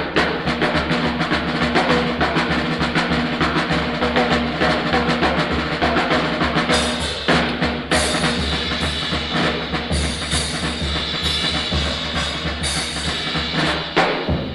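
Jazz drum kit played hard and fast in a live bebop recording: rapid snare strokes and rolls over bass drum, with cymbals coming in brighter about seven seconds in.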